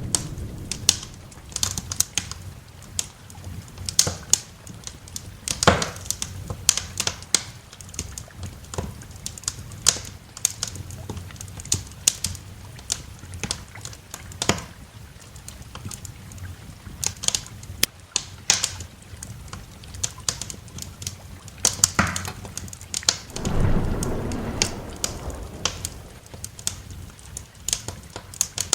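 Wood fire crackling, with frequent sharp pops and snaps over light steady rain. A low roll of thunder swells up about three-quarters of the way through.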